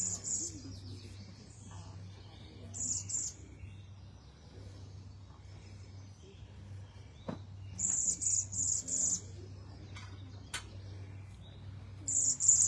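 Cedar waxwing giving its very high, thin, trilled whistles in short bursts, about four times.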